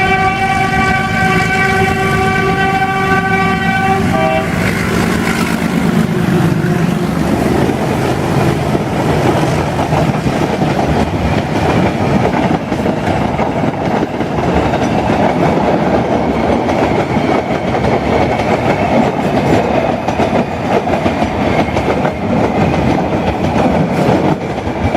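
A YDM-4 diesel locomotive's horn sounds one long, steady blast that cuts off about four and a half seconds in. After that, a metre-gauge passenger train rolls past with a steady rumble and the clickety-clack of its wheels over the rail joints.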